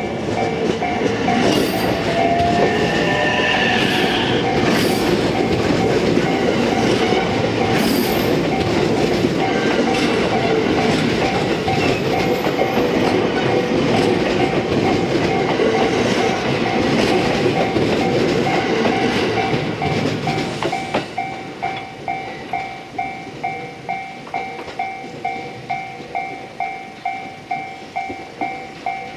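A JR West 227 series electric train passing at close range, its wheels clacking over the rail joints, loud for about the first twenty seconds before dying away. Once it has gone, a two-tone warning bell ringing about twice a second is left; it is heard under the train throughout.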